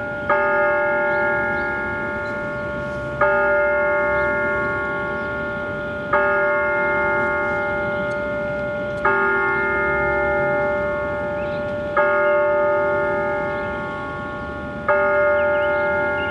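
Hoeschler Tower's bell tolling, six slow, evenly spaced strikes about three seconds apart, each ringing on and fading before the next: the tower striking the hour.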